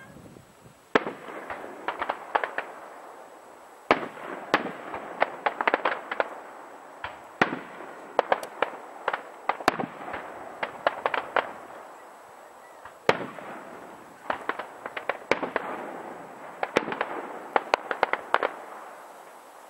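Aerial fireworks shells bursting overhead, a sharp bang every few seconds, each followed by a rapid cluster of crackling pops.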